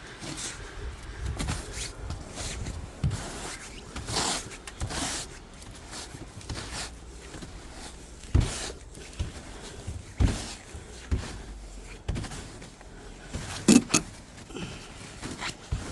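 Snow being brushed and scraped off a car in irregular strokes, with a few sharper knocks against the bodywork.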